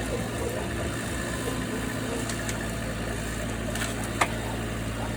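A machine's engine idling steadily, with a few sharp knocks, the loudest about four seconds in.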